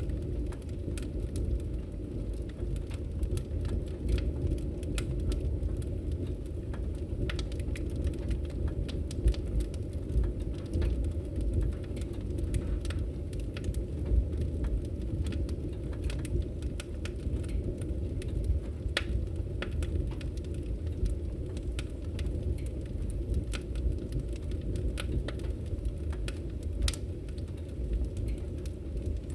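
Burning logs in a fireplace crackling, with frequent irregular pops over a low steady rumble of the flames.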